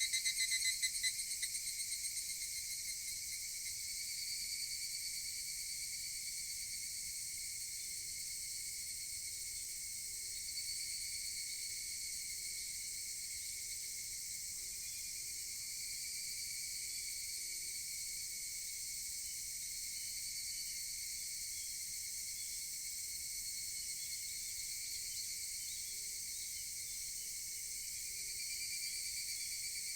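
Higurashi (evening cicadas) calling in chorus, a steady high-pitched insect drone. A nearer cicada's pulsing call is loudest in the first second or two and fades over the next few seconds.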